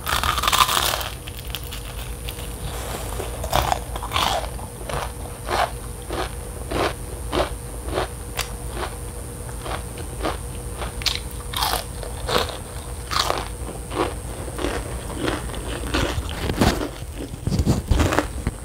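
Crispy fried chicken skin bitten close to a clip-on microphone with a loud crunch, then chewed with sharp crunches about two a second. Near the end, low rubbing thumps as the clip-on microphone is handled.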